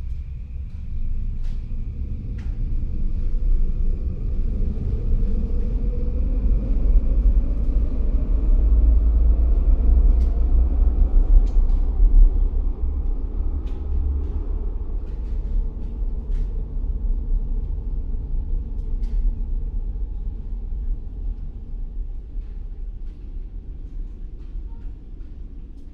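A heavy vehicle passing in city street traffic: a low rumble that swells over about ten seconds and then slowly fades, with an engine tone rising in pitch over the first several seconds and a few light clicks.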